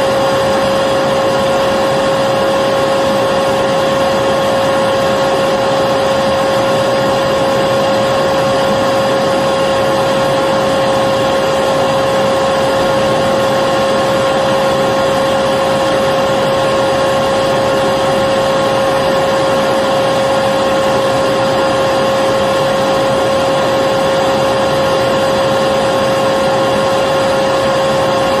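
Vacuum cleaner running continuously at a constant speed: a steady rushing of air with a high motor whine, no change in pitch or level.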